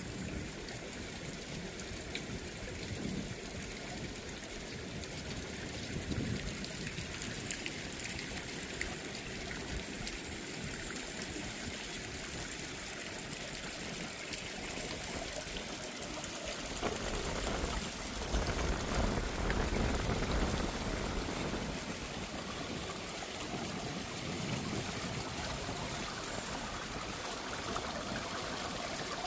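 A small stream flowing and trickling steadily. From about eighteen seconds in, for a few seconds, a stronger gust of wind rumbles on the microphone.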